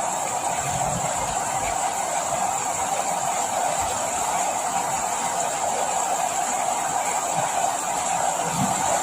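Steady rain falling, an even continuous hiss with a few soft low thuds.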